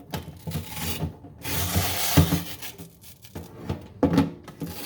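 A cloth mopping pad from a Yeedi Vac 2 Pro robot vacuum being peeled off its mop plate: scratchy rasping and rubbing, with a few sharp knocks of handling against plastic.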